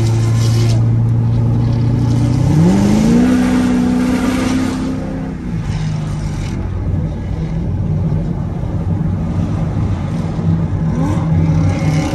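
C7 Corvette's V8 heard from inside the cabin: running steadily at cruise, then revving up sharply about two and a half seconds in as the car accelerates. It holds the higher revs for a couple of seconds, then drops back to a lower pitch over steady road noise.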